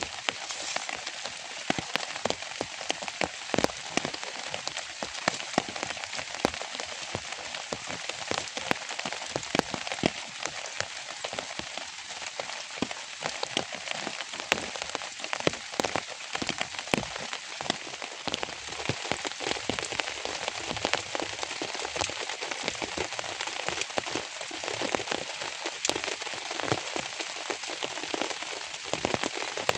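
Steady rain with many separate drops striking close by as sharp taps over a continuous hiss.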